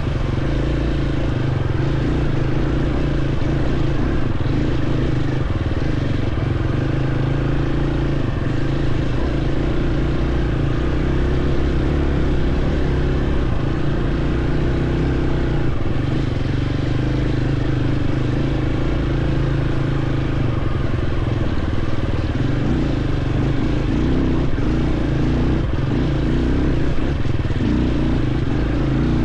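Dirt bike engine running steadily under way, the revs holding fairly even with small rises and dips.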